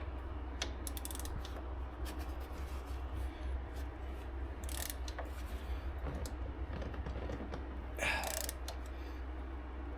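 Click-type torque wrench ratcheting on wheel bearing hub bolts: short runs of quick ratchet clicks, with pauses between them.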